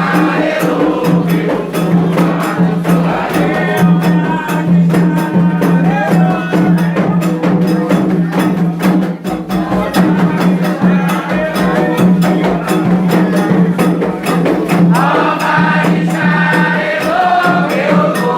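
Candomblé chant: a group of voices singing together over rhythmic percussion with sharp, repeated strikes.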